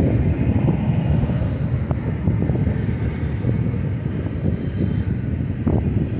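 Double-stack intermodal well cars rolling past at speed: a steady low rumble of steel wheels on rail, with light clicks throughout and a few sharper knocks near the end.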